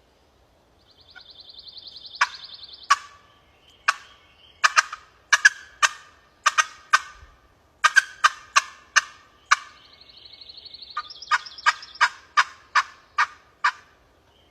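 Wild turkey cut and cackle worked on a glass friction (pot) call, imitating an excited hen to shock a gobbler into gobbling. It comes in two runs, each a fast rattling roll followed by a string of sharp, loud cut notes at about two or three a second. The caller himself rates it a pretty crappy rendition.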